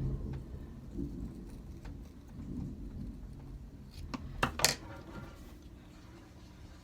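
Scissors cutting paper freehand, under low rumbling handling noise, with two sharp snips about four and a half seconds in.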